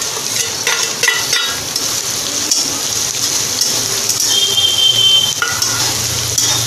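Chopped onion sizzling in hot oil in a kadhai as it is tipped in and stirred with a spatula, with a few clicks against the pan about a second in.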